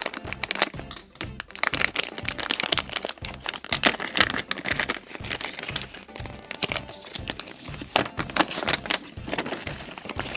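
Plastic blind bag of a LEGO Simpsons minifigure crinkling and crackling as it is opened and handled, over background music with a steady beat.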